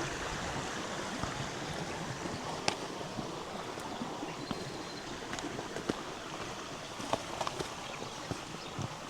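River water flowing steadily over stones, with scattered sharp clicks and taps on top and one brief high note about halfway through.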